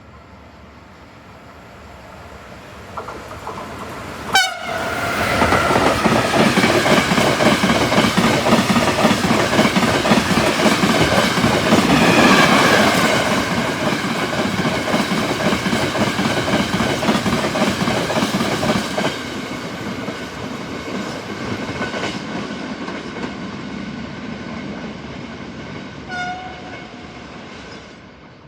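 A train passing through a station at speed: a short horn blast about four seconds in, then a loud pass with fast wheel clatter over the rail joints and tones that fall in pitch as it goes by. The sound fades, with another brief horn toot near the end.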